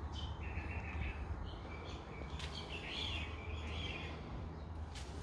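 Faint bird chirping over a low steady hum, with a couple of light clicks.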